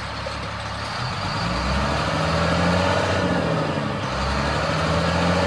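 The garbage truck's 7.2-liter diesel engine is revved up from idle twice, dipping briefly between the two. It revs up well, a sign of a healthy engine.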